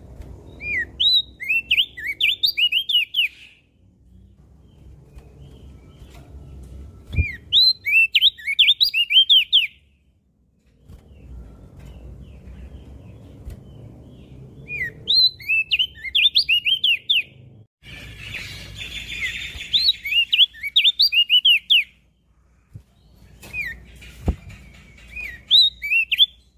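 Crested white-eye (opior jambul) singing in five bursts. Each burst is a quick run of high, upward-sweeping chirps lasting a few seconds, with short pauses between them. A faint low rumble of background noise lies underneath.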